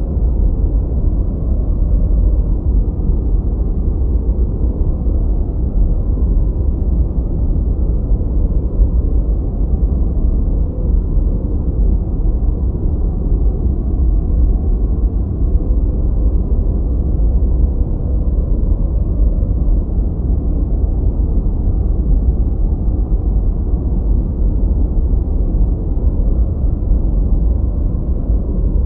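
Continuous generated noise of the kind played for focus or sleep, steady and unchanging. It is deep and muffled, with almost no high hiss.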